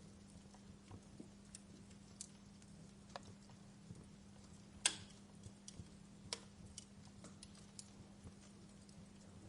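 Wood fire crackling faintly: irregular sharp pops and snaps over a soft hiss, the loudest pop about five seconds in, with a steady low hum underneath.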